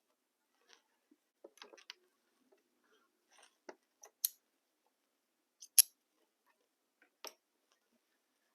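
Scattered light clicks and taps of quilting tools and fabric pieces being handled on a work table, with two sharper clicks about four and six seconds in.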